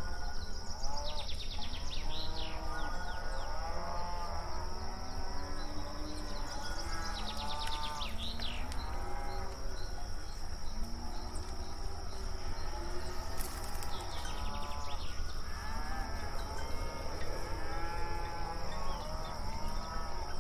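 A herd of cattle mooing, many calls overlapping one after another, some deep and some higher-pitched, with a steady high whine underneath throughout.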